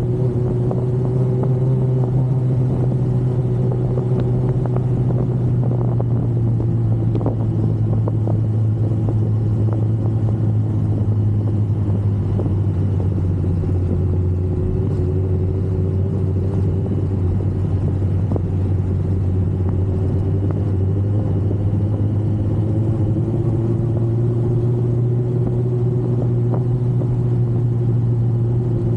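Yamaha R1 inline-four sport bike engine running steadily at cruising speed, under a constant rush of wind noise. Its pitch sags a little through the middle and climbs back near the end.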